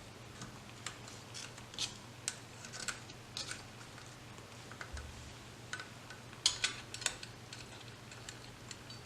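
Scattered light clicks and rustles of ration packaging and heater parts being handled, a few sharper clicks about six and a half to seven seconds in, over a faint steady low hum.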